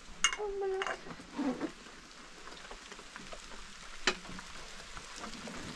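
Steady hiss of rain falling. A few sharp knocks of a metal pot and utensils come in the first second, and one more about four seconds in.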